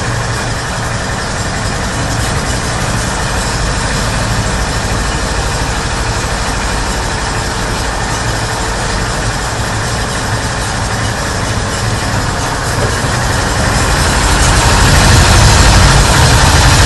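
Himxen 35-horsepower engine running steadily, getting louder and deeper about three-quarters of the way through.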